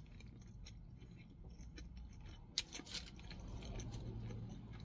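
A person quietly chewing a mouthful of burger, with small wet mouth clicks and two sharper crackles about two and a half and three seconds in, over a faint steady low hum.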